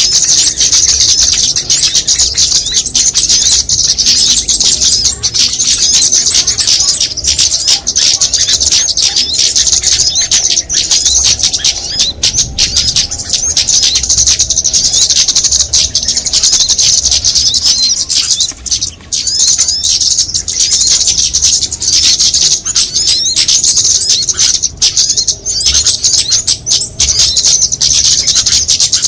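Dense chorus of many small songbirds chirping and twittering over one another without a break, high-pitched and loud. It is a bird-lure mix recording made to draw small birds in.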